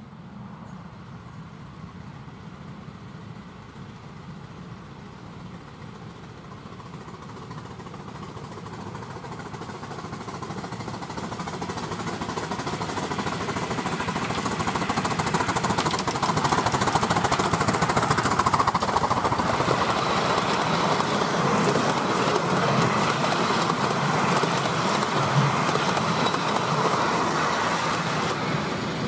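Miniature railway train approaching along the track and running past. Its sound builds gradually from about a fifth of the way in, is loudest over the second half, and eases off near the end.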